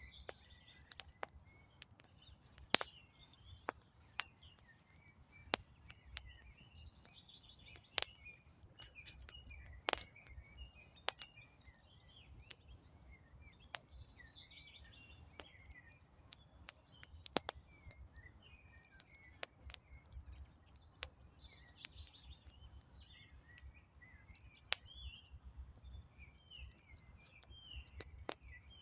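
Wood fire crackling with irregular sharp pops, under continuous chirping birdsong.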